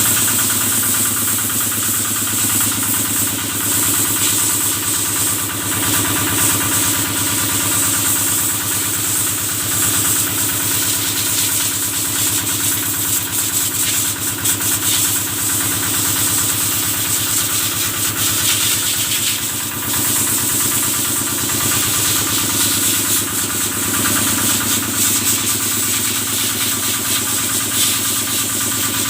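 Kubota stationary engine powering a cattle-washing sprayer, running steadily at an even speed, with a steady high hiss over it.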